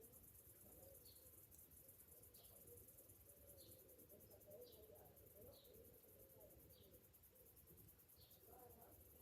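Faint, steady high-pitched trill of summer cicadas, with short high chirps repeating about once a second.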